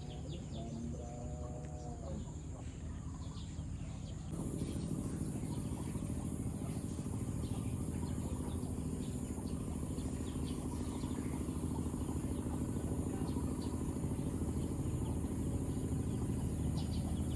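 A steady low hum runs throughout and gets louder about four seconds in, with faint bird chirps over it and a short call, like a chicken's, in the first two seconds.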